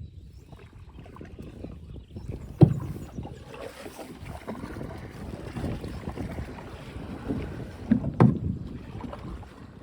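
Water sloshing and splashing around a small boat with wind on the microphone, and a few sharp knocks: a loud one about two and a half seconds in and two close together near the end.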